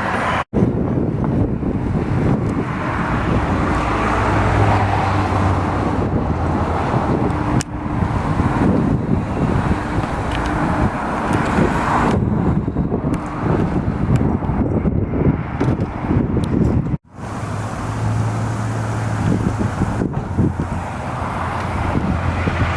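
Car engines running at low speed as cars roll by, a steady low engine hum with road noise. The sound cuts out sharply twice, about half a second in and again near the two-thirds mark.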